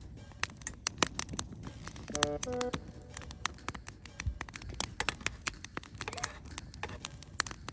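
Wood campfire crackling, with sharp, irregular pops over a low hiss. A little over two seconds in, a brief two-note pitched call sounds.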